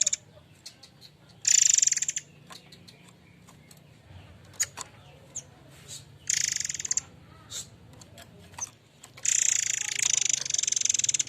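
Murai air mancur bird giving harsh, buzzy rattling calls in three bursts: a short one about a second and a half in, another near the middle, and a longer one of about two seconds near the end. Short sharp chips are scattered between the bursts.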